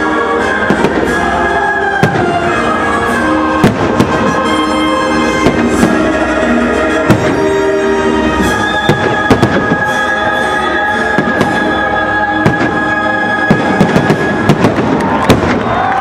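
Fireworks going off in a steady stream of bangs over loud music with long held notes.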